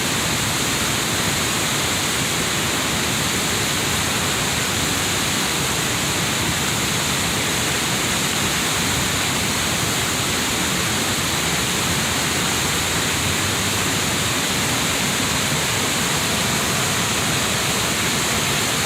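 River waterfall: a steady, unbroken rush of falling water.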